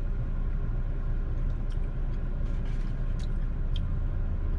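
Steady low rumble of a car idling, heard from inside the cabin, with a few faint light clicks.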